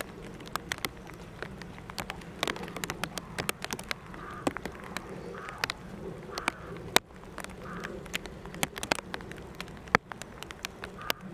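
Bird calls coming and going about once a second, over many short sharp crackling clicks and a steady low hum.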